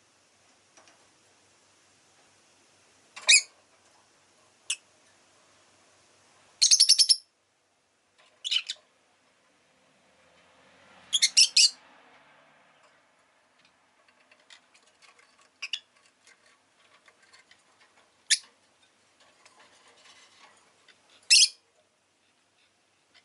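Rosy-faced lovebird giving short, sharp, high chirps every few seconds, some single and some in quick runs of three or four, with faint small ticks between them.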